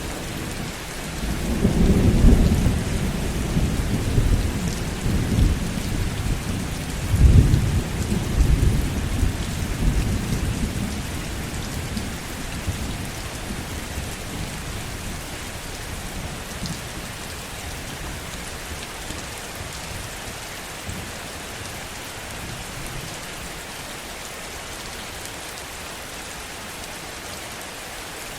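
Heavy rain falling steadily, with rolling thunder: a low rumble that swells twice in the first third, loudest near the second swell, then dies away, leaving the rain alone.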